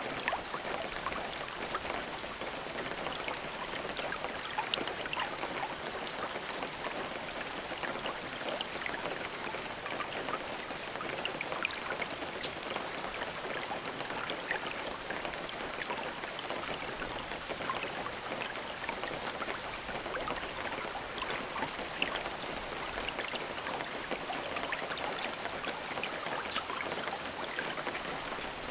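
Steady rain, with many individual drops pattering on a surface and no thunder.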